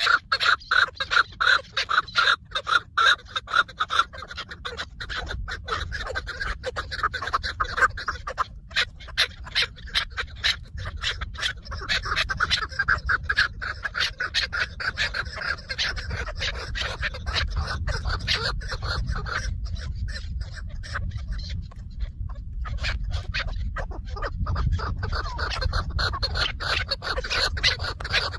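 Chukar partridge calling: a long run of rapid, repeated clucking notes, loudest in the first few seconds, fading and coming back in several stretches.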